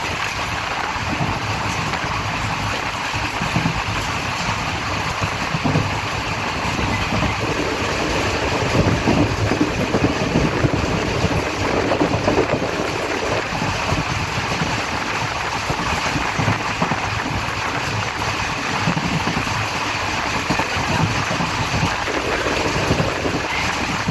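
Passenger train running: a steady rumble and rattle of the coach, with irregular low knocks from the wheels and track.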